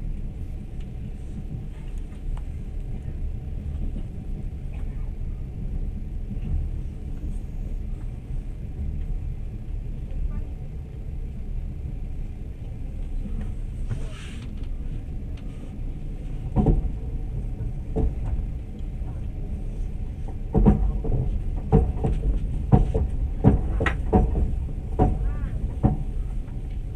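Passenger train running: a steady low rumble of the carriage on the move, with sharp clacks of the wheels on the track starting about two-thirds of the way in and coming in quick, irregular groups near the end.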